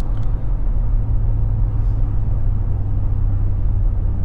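Infiniti G35 coupe's VQ35DE 3.5-litre V6 cruising at steady revs through a Z1 touring exhaust, a low even drone over road noise.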